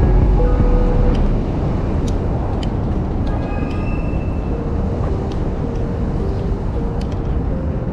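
Steady city street noise: traffic rumbling, with a few sharp clicks.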